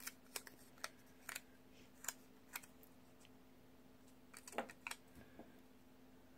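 Soft, sparse paper clicks and ticks from handling sticker sheets and planner pages: about six in the first three seconds and a few more around five seconds in, over near silence.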